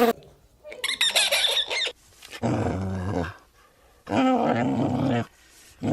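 Animal calls, four in a row with short gaps: a high, wavering call about a second in, then longer, lower-pitched calls.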